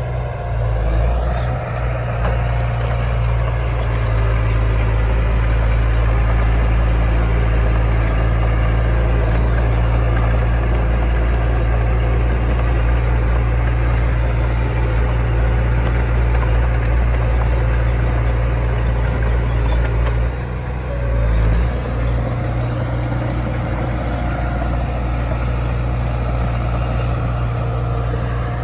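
Heavy diesel engine of earthmoving machinery running steadily, with a brief dip and swell about twenty seconds in.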